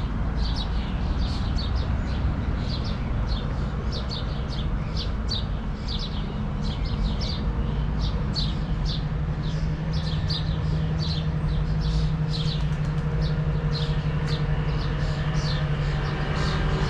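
A small bird chirping over and over, about two to three short high chirps a second, over a steady low rumble of city traffic. A steady engine hum comes in about halfway through.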